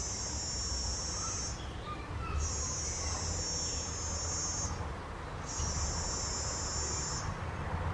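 An insect trilling in high-pitched buzzing bursts, each about two seconds long with roughly a second between them: three in all, the first already under way at the start. A steady low rumble runs beneath.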